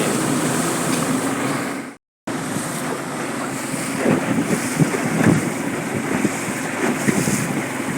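A small boat under way on the river: a steady engine drone with wind buffeting the microphone and water splashing against the hull. The sound drops out for a moment about two seconds in.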